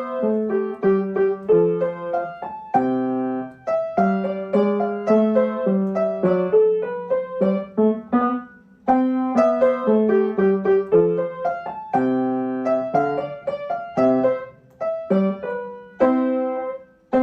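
Solo piano music playing a gentle melody in separate notes and short phrases.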